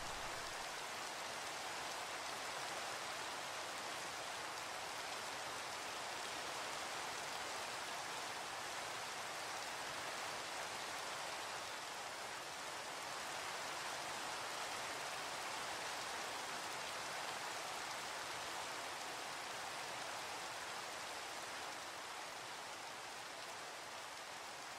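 Steady rain falling as an even hiss, with the tail of a low thunder rumble dying away at the very start; the rain slowly fades in the last few seconds.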